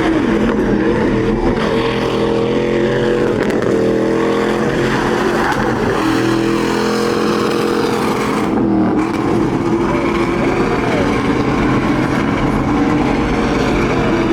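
Truck engines running and revving loudly, their pitch rising and falling, with voices mixed in.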